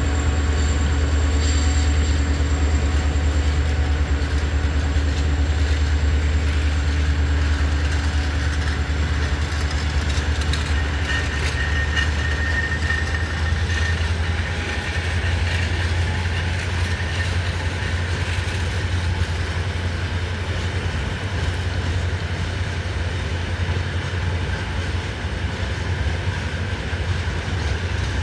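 Freight train rolling past with a steady, heavy rumble of its wagons on the track. A brief high squeal rises over it about halfway through.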